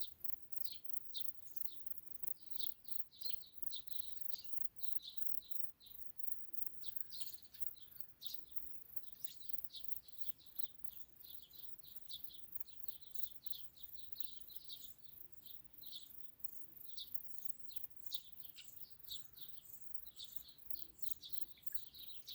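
Small birds chirping in short, irregular calls, over a fast, even, very high-pitched pulsing typical of insects stridulating.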